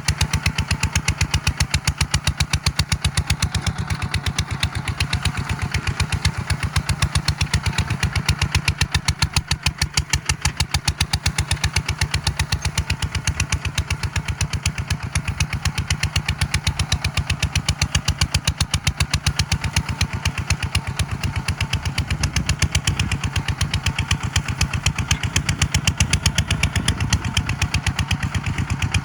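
Tractor engine running steadily with an even, rapid pulsing beat.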